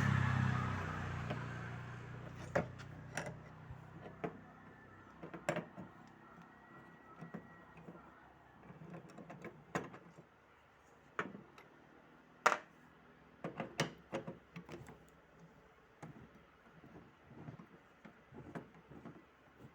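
Irregular sharp metal clicks and taps of an 8 mm spanner working the hinge bolts of a refrigerator door, the loudest about halfway through. A passing vehicle fades out over the first couple of seconds.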